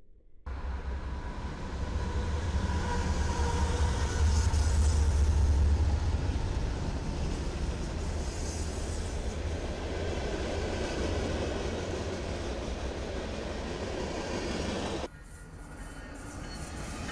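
Canadian National diesel locomotive passing close by: a loud, steady low engine rumble with the noise of wheels on rail, strongest a few seconds in. About 15 seconds in, the sound cuts abruptly to a quieter train approaching and growing louder.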